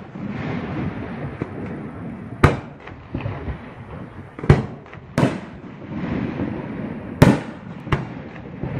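Fireworks bursting: about five sharp bangs spaced a second or two apart, over continuous crackling and rumble from other bursts.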